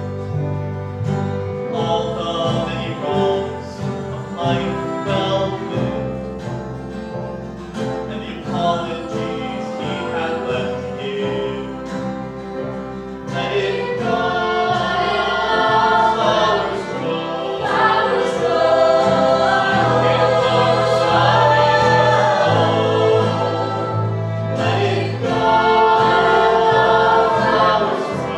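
Several voices singing sustained wordless harmony over a bass accompaniment, growing fuller and louder about halfway through.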